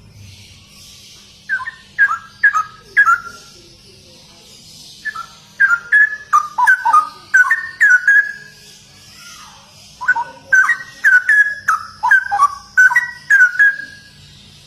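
Straw-headed bulbul (cucak rowo) singing: three bouts of rapid, liquid whistled notes gliding up and down, the first short and the next two longer, over a faint steady hiss.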